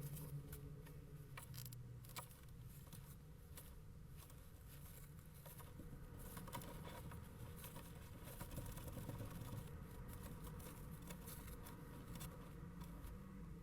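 Faint, irregular scratching and tapping of a kestrel shuffling about inside a nest box, with clicks of claws on the box floor over a low steady hum.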